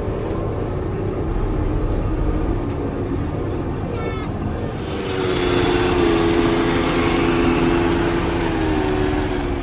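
A motor starts a steady whine about halfway through, with a hiss and a few close pitched tones, over background voices.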